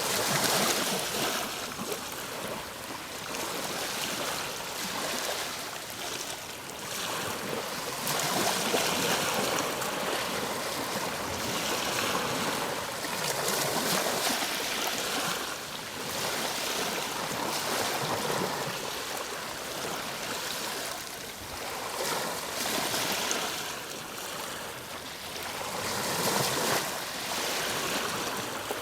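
Ocean waves breaking and washing onto shore, a continuous surf that swells and eases every few seconds.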